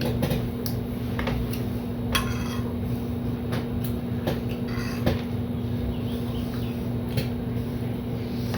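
Scattered clicks and clinks of cutlery on a plate during eating, with a couple of brief rustling scrapes, over a steady low hum.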